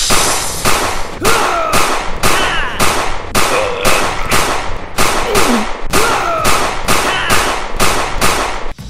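A rapid, evenly spaced run of sharp bangs, about two and a half a second, with high gliding squeals between some of them.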